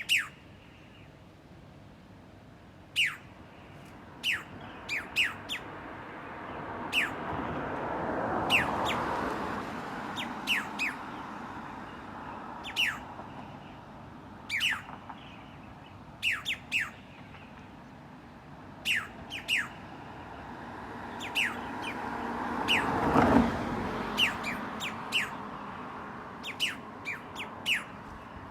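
Wild birds giving short, sharp chirps at irregular intervals, each a quick downward sweep. Twice a broad rushing noise swells over a few seconds and fades beneath them.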